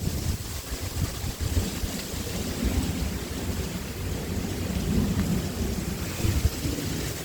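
Strong wind gusting over the microphone, a heavy uneven rumble, with a steady rustling hiss over it.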